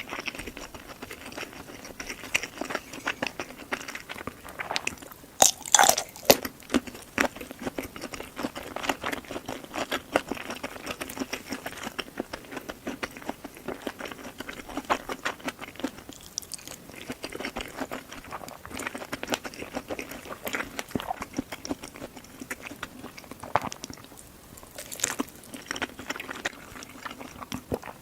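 Close-miked mukbang eating: steady chewing and crunching, full of small wet clicks, with a few louder crunches about six seconds in and again near the end.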